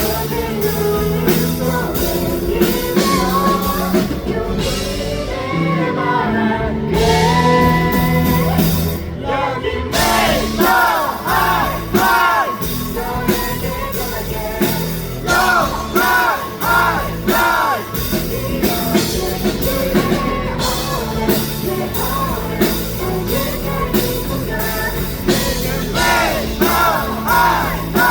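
Live rock band performance with female lead vocals singing over drums, bass and electric guitars, amplified in a hall. A run of short, repeated rising-and-falling sung notes comes three times: about ten, sixteen and twenty-six seconds in.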